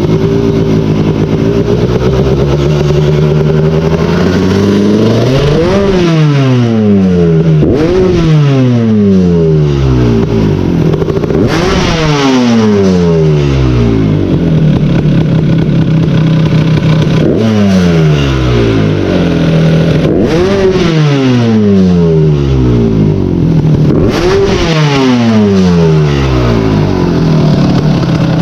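Kawasaki KX250 two-stroke motocross engine running on the stand, blipped about six times: each rev climbs sharply and falls back to idle. Its throttle position sensor is freshly reconnected and working, and it sounds a lot snappier, revving out better.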